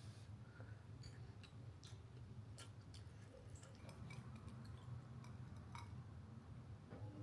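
Faint, scattered light clicks and taps from handling things during kitchen food preparation, over a low steady room hum.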